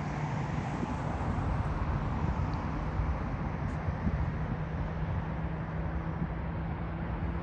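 Jet airliner coming in to land, a steady broad engine roar with a low hum, its high hiss fading near the end. Wind rumbles on the microphone underneath.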